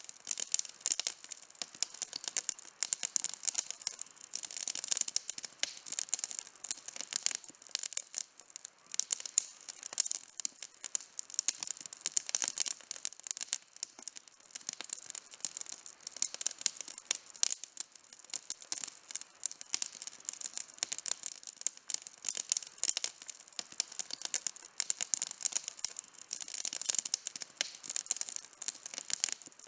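Wood campfire burning, with a dense, continuous crackle of small snaps and pops.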